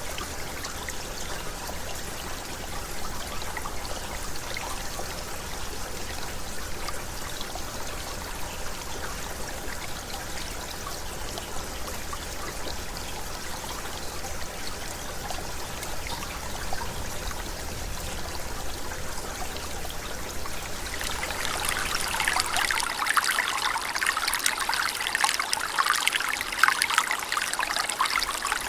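Clear mountain stream babbling and trickling over stones in a steady wash. About 21 seconds in it changes to closer, louder splashing and trickling.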